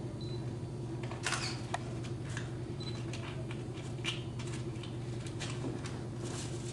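Scattered small clicks and rustles of small parts being handled on a workbench, over a steady low hum.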